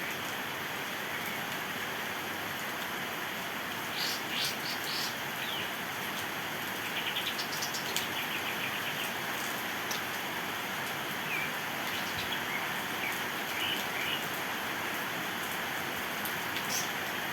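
Steady rain hiss with a kapas tembak songbird calling over it: a few short chirps, then a rapid trill a little after halfway through the first half, and scattered short calls later on.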